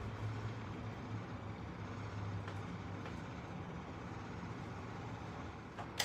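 Low, steady rumble of a vehicle engine running outside, swelling and fading slightly, with a sharp click at the very end.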